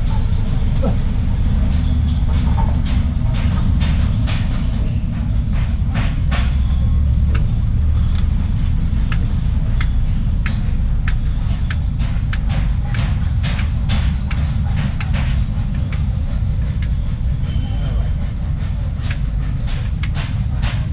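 Grease gun work on a truck's grease fittings: frequent sharp metallic clicks, irregularly spaced, over a steady low mechanical rumble.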